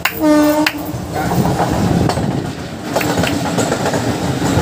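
A short horn blast from an Indian Railways electric locomotive, lasting about half a second, near the start. Then the locomotive and its train run past close by with a steady rumble and a couple of sharp wheel clicks over the rail joints.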